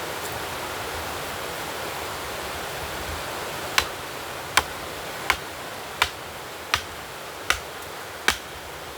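A steady rushing background noise, and from about four seconds in a run of seven sharp knocks in an even rhythm, a little under a second apart, like repeated strikes of wood or a tool.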